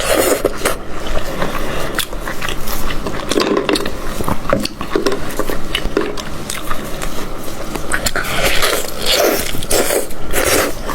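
Close-miked eating of goat head meat: irregular biting and chewing with many short clicks and crunches.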